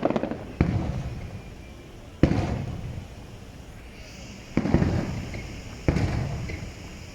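Aerial firework shells bursting: about four sharp booms a second or two apart, each trailing off in a long rumble, with a faint crackle later on.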